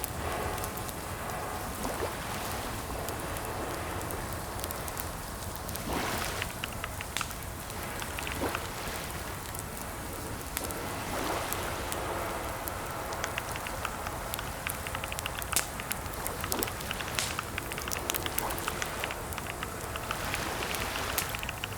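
Typing on a computer keyboard: irregular runs of key clicks with short pauses, over a steady background hiss.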